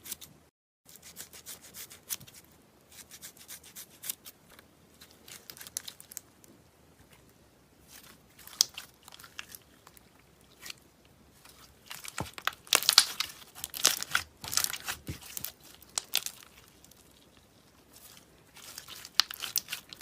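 Slime being squeezed and poked by hand, giving crackling, crunching bursts of small clicks in uneven clusters, loudest a little past the middle and again near the end.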